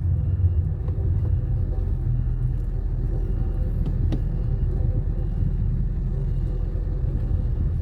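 A car in motion heard from inside the cabin: a steady low rumble of engine and tyres on the road. There is a faint click about four seconds in.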